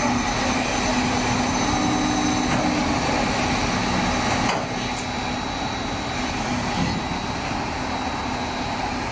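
Heavy machinery engine running steadily, a dense mechanical noise with a faint hum. It drops a little and changes character about halfway through.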